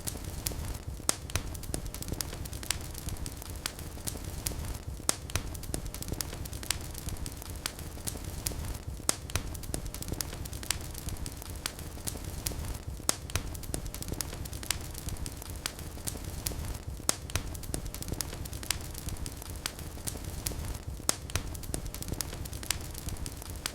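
Wood fire in a fireplace crackling: frequent sharp snaps and pops at irregular intervals over a steady low rumble of the flames.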